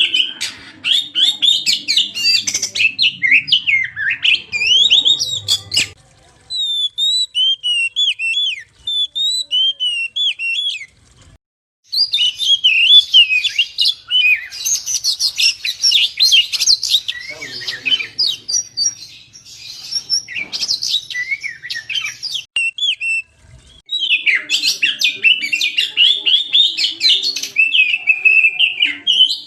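Oriental magpie-robin (kacer) singing a fast, varied, chattering song in long bursts broken by short pauses, used as a lure recording to provoke other kacer into song.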